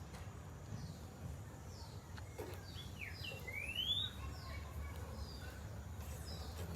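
Birds chirping outdoors: scattered short high notes and one clear rising chirp about halfway through, over a steady low background rumble.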